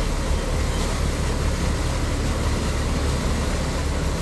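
Steady drone of a motorboat underway, with engine rumble, rushing water and wind noise holding level throughout.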